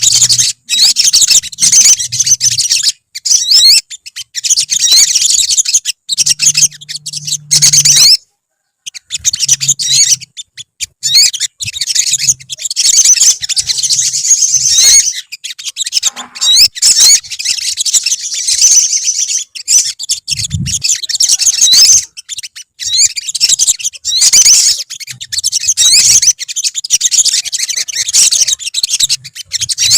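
Olive-backed sunbirds, several at once, chirping and singing in fast, high-pitched twittering trills, broken by a short sudden gap about eight seconds in.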